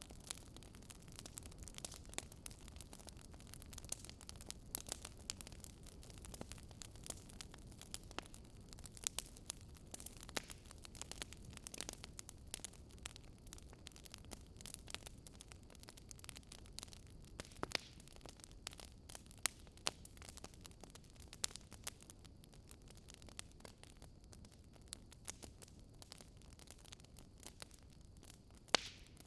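Wood fire crackling in a fireplace: frequent sharp crackles and pops over a low, steady rumble of flames.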